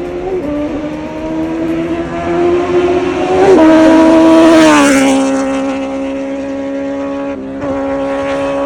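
Kawasaki Z900 inline-four engine through an Arrow full titanium exhaust, passing by under power. The exhaust note climbs and grows louder until it peaks about four seconds in, then drops in pitch about five seconds in as the bike goes past, and holds a lower, steady note as it moves away.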